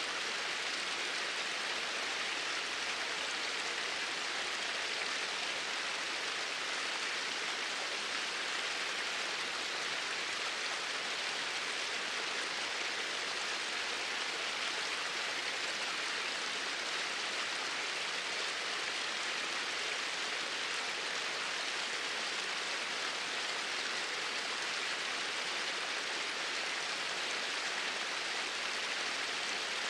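Flowing water, a steady even rush with no breaks or changes.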